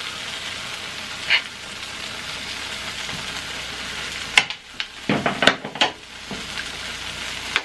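Cheese and oil sizzling steadily in a hot electric pan, with a cluster of sharp clicks and clatters a little past halfway.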